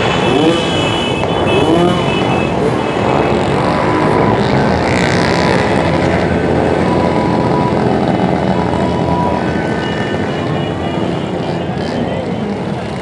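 Many motorcycle engines running together as a caravan of bikes rides past, with engines revving up and down in the first couple of seconds.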